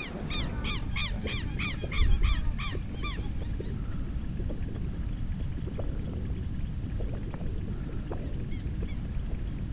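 A bird calling in a fast series of shrill, arched notes, about three a second, stopping about three seconds in, with a few more calls near the end. A steady low rumble runs underneath.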